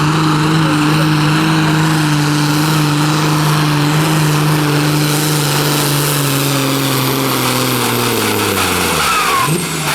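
Competition pulling tractor's engine running flat out on a pull, its pitch slowly sagging under load, then falling away steeply about eight seconds in as it comes off the throttle.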